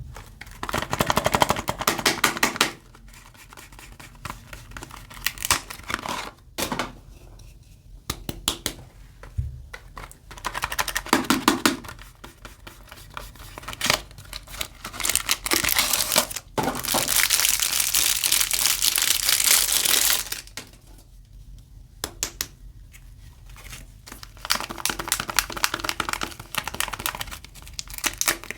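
Soap bar packaging being crinkled and torn open by hand, in separate bursts of crisp crackling. A longer continuous stretch of about four seconds comes past the middle.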